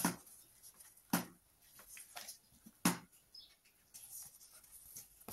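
A small paper notebook being handled: three short, sharp rustles or taps, about a second and a half apart, then softer rustling near the end.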